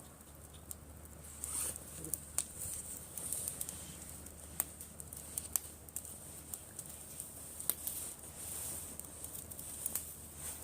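Driftwood bonfire burning and crackling, with scattered sharp pops over a faint steady hiss.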